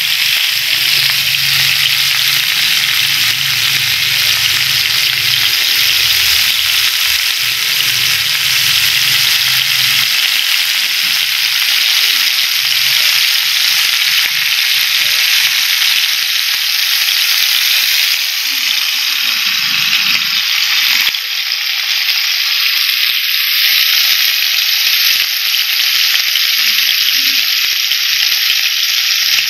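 Food frying in hot oil in a pan: a loud, steady sizzle.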